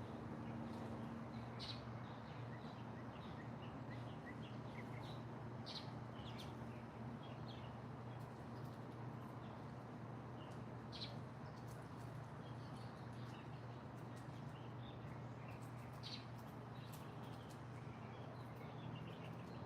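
Small birds chirping: many short, high calls scattered throughout, over a steady background hiss and a low steady hum.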